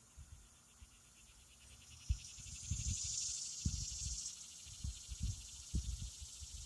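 An insect's buzzing trill swells for about three seconds, starting a second and a half in, then fades. Short low rumbling thumps are scattered through it.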